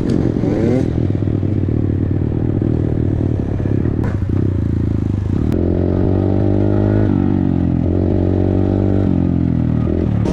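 Dirt bike engine running and revving, its pitch rising and falling several times, with distinct shifts in the second half.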